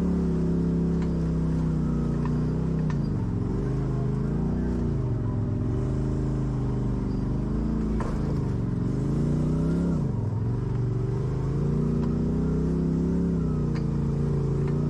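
Off-road vehicle engine running steadily under load, its pitch dipping and recovering about four times as the throttle is eased and reapplied, with a few light knocks.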